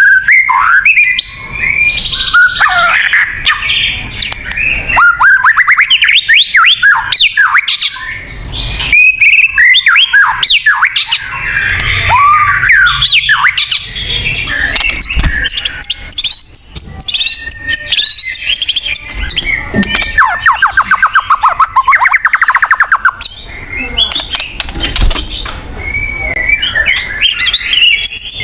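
White-rumped shama (murai batu) in full song: a loud, varied run of whistles, quick rising and falling slurs and sharp notes, with a fast rattling trill about two thirds of the way through.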